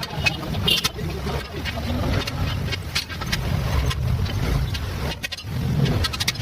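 An engine running with an uneven low rumble, with irregular sharp clicks over it.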